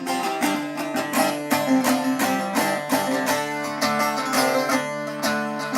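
Instrumental music: a plucked string instrument playing a quick melody of many short notes over a steady low drone, the introduction to a Turkish folk song.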